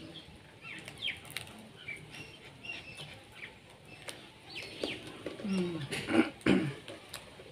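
Small birds chirping on and off in the background. About five to six and a half seconds in come a few short, low, voice-like sounds and sharp smacks from a person eating cake.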